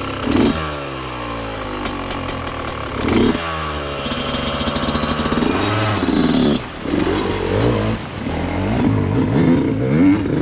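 Off-road motorcycle engine being revved. It blips up and falls away about twice in the first few seconds, then gives a run of quicker throttle blips in the second half.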